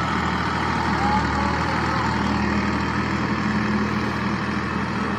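Tractor engine running steadily at a constant speed, with a low, even drone.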